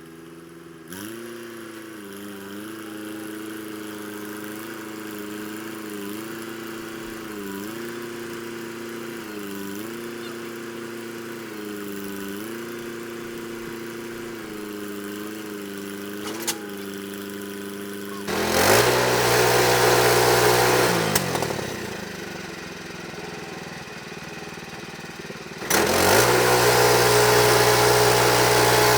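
Sawmill engine idling with a slightly wavering pitch. About two-thirds of the way through it revs up loud with a rushing noise for a few seconds, settles back, then revs up loud again near the end as the mill is worked.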